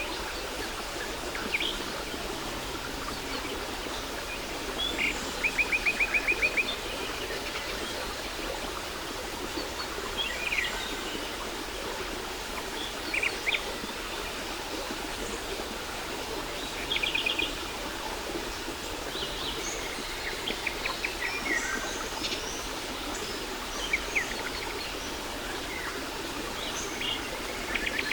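Steady rush of a waterfall with small birds chirping over it in short, rapid trills, the loudest about six seconds in.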